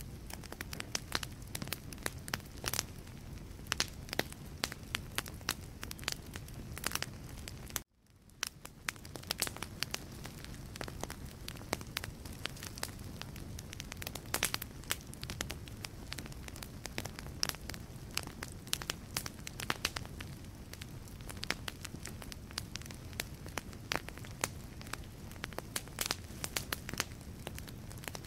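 Wood fire burning in a fireplace, the logs crackling and popping in dense sharp snaps over a steady low rumble of flame. About eight seconds in, the sound cuts out for a moment and fades back in.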